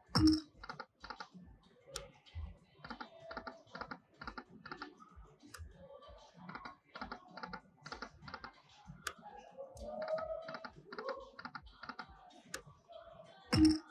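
Lightning Link slot machine sound effects: a rapid, even ticking about five times a second, with faint electronic tones. A louder hit comes at the start and again near the end.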